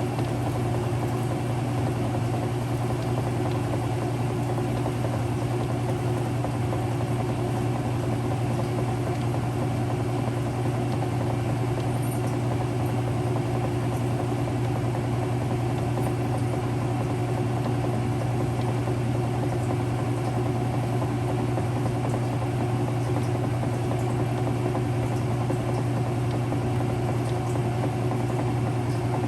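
Early-2000s Whirlpool direct drive washer running, a steady, unbroken motor hum.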